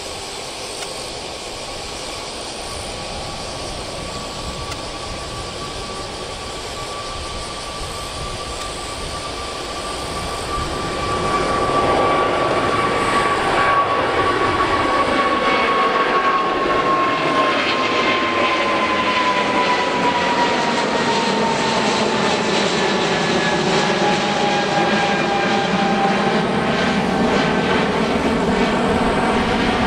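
Boeing 777-200ER's jet engines running: a steady whine over a broad roar, which swells suddenly about a third of the way in and then stays loud, its pitch slowly sinking.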